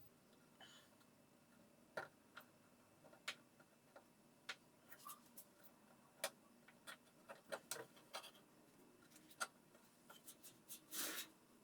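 Faint, irregular light clicks and taps of tools and parts being handled during repair work, with a short scraping rub near the end.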